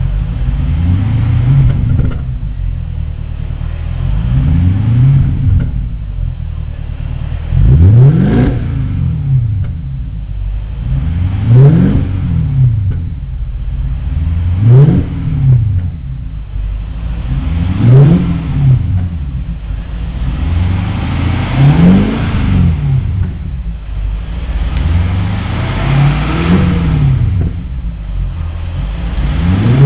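BMW 745i (E65) 4.4-litre V8 exhaling through a one-off custom dual-exit muffler, idling between about nine quick free revs, one every three to four seconds, each rising and falling straight back.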